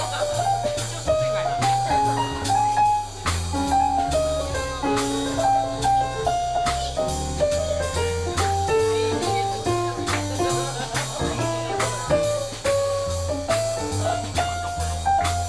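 Live jazz band playing: a melody line moving in steps over a bass line, with a drum kit keeping time on cymbals.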